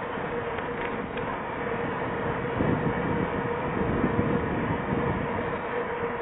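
Steady rush of wind and rolling rumble on a bike rider's camera microphone while riding, with a faint steady tone running underneath.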